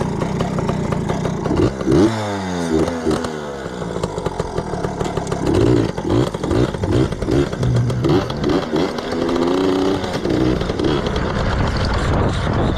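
Yamaha PW80 dirt bike's small two-stroke single-cylinder engine being ridden: the revs drop sharply about two seconds in, then rise and fall over and over from about five and a half to ten seconds in as the throttle is worked.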